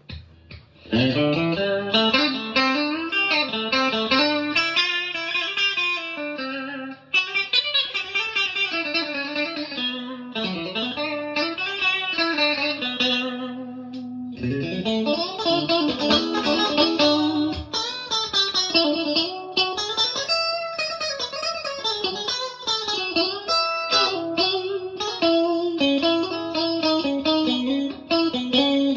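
Stratocaster-style electric guitar played straight into a Marshall DSL40C valve combo amp: a tone sample of melodic single notes and chords, with a short pause about a quarter of the way in and another about halfway before a new phrase starts.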